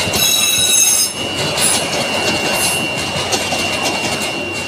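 Bangladesh Railway intercity passenger coaches rolling past, wheels clicking over the rail joints with a steady high-pitched wheel squeal. A louder, shriller squeal comes in for the first second.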